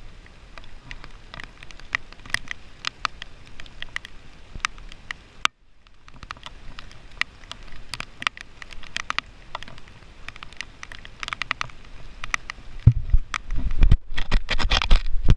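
Raindrops pattering irregularly on a surface close to the microphone, as a scatter of sharp ticks. Low rumbles come in near the end.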